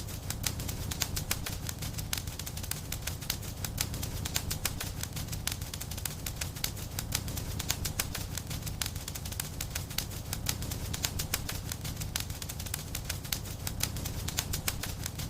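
Wood fire crackling in a fireplace: many small irregular pops and snaps, several a second, over a low steady rumble of the flames.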